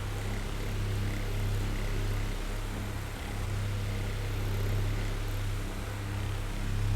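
Oscillating electric fan running: a steady motor hum under the hiss of moving air, swelling and easing every few seconds.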